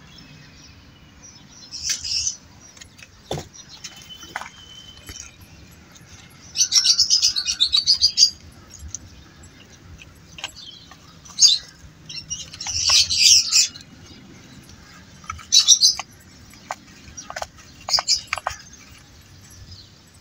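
Small birds chirping in short high-pitched bursts and quick trills, repeated many times; the longest trills come about six seconds in and again around thirteen seconds. A few light taps fall between the calls.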